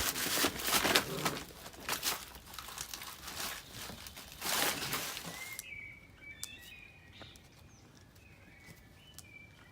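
Rustling and scuffling with many sharp clicks for about five seconds, then it cuts off suddenly, leaving faint bird chirps.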